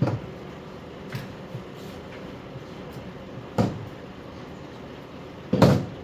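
Several clunks and knocks of tools or metal parts being handled during disassembly, the loudest near the end, over a steady low hum.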